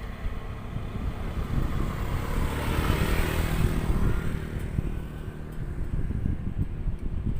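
A motor vehicle passing by, its engine and tyre noise swelling to a peak about three seconds in and then fading, over wind rumbling on the microphone.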